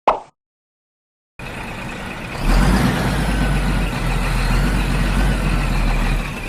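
A short sharp sound near the start, then a vehicle engine running steadily with a deep rumble, like a large truck, growing louder about a second after it starts.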